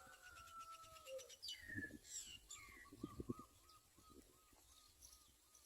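Birds calling faintly: a couple of falling whistled notes and quick downward chirps in the first half, then a run of short notes repeated at one pitch, about three a second.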